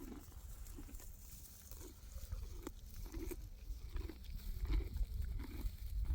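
A string of short, low animal noises, about two a second, over a steady low rumble.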